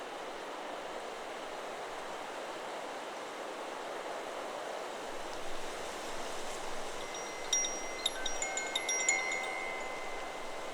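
Steady wind through the trees. About seven seconds in, a Chakra Chimes 'Solar Plexus' wind chime is struck several times in quick succession, and its tones ring on at several pitches for a couple of seconds.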